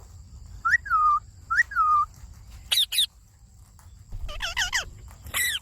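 Indian ringneck parakeets calling: a string of short, sharp whistled calls, each rising and then dropping in pitch, coming in bursts of one to several notes.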